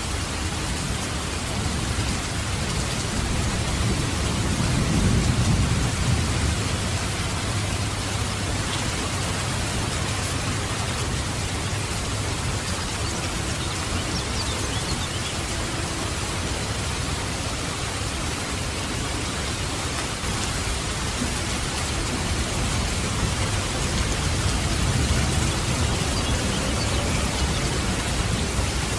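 Steady rain falling, with low rolling thunder that swells about five seconds in and again near the end.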